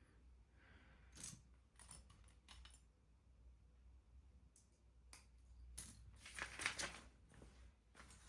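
Faint scattered clicks and light rustling of small plastic pieces being handled, with a longer rustle about six to seven seconds in: LEGO bricks being sorted and fitted together.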